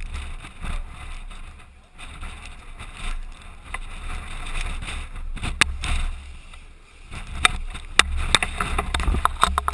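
Airsoft gun firing a string of irregular single shots, sharp clicks that come in the second half, over a steady low rumble of wind and handling on the gun-mounted camera housing.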